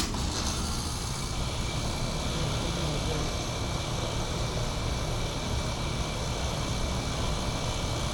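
Air-conditioning unit running: a steady rush of fan air with a faint, constant high-pitched whine.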